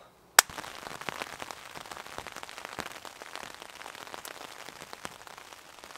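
Light rain pattering on a tarp: a steady hiss dotted with many small, irregular drop taps, with one sharper tap about half a second in.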